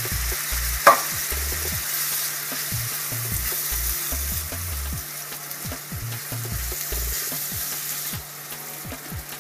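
Chili base sizzling in a frying pan as canned chopped tomatoes are stirred in with a spoon, with small scraping clicks and a sharp knock about a second in. The sizzle eases near the end.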